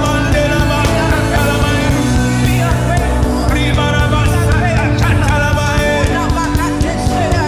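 Live gospel worship band playing, with singing over a steady rhythm section.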